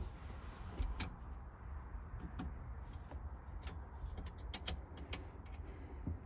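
Scattered light clicks and taps of hand tools working on a bolted steel harness bar, with a low steady hum underneath.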